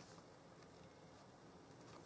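Near silence: room tone with a few faint light taps.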